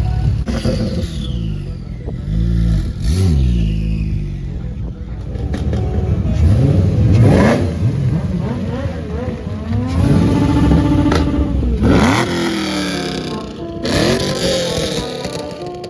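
Car engines revving: repeated throttle blips, with the engine pitch climbing sharply and falling back several times.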